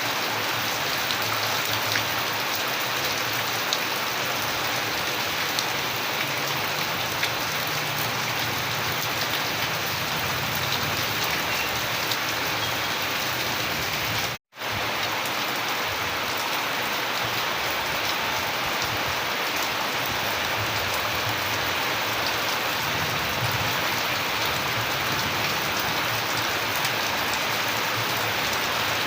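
Steady rain falling, an even hiss with scattered individual drop ticks. It cuts to silence for a split second about halfway through, then carries on unchanged.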